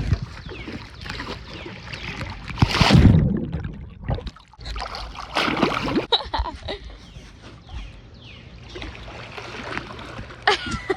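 Swimming-pool water splashing and sloshing as people swim, with the biggest splash about three seconds in.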